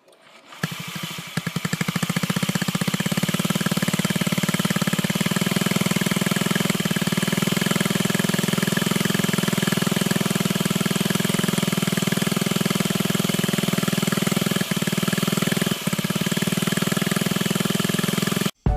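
Honda Zoomer's 50 cc single-cylinder four-stroke engine, started about half a second in and idling with a rapid, even putter. It cuts off suddenly near the end.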